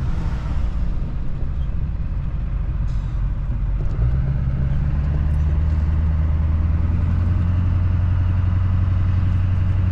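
Duramax diesel engine of a Chevrolet Silverado pickup running as the truck is driven: a steady low drone that steps up slightly and evens out about four seconds in.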